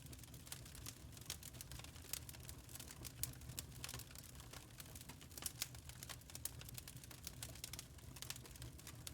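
Wood fire crackling in a fireplace: irregular, quick snaps and pops over a steady low rumble of the flames.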